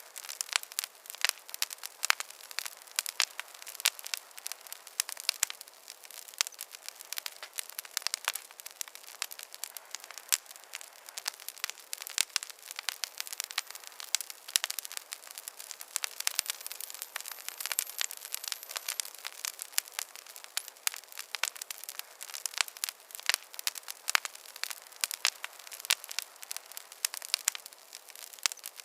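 Wood fire crackling in a fireplace: a dense, irregular run of small pops and snaps over a soft hiss.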